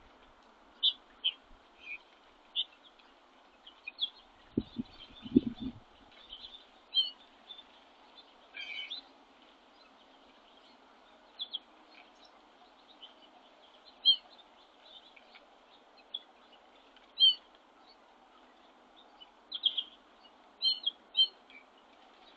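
Small birds at a feeder giving short, high chirps, scattered singly and in quick pairs over a steady faint background hiss. A low thump comes about five seconds in.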